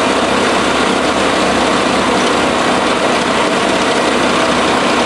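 Milling machine running steadily, a continuous loud machine noise.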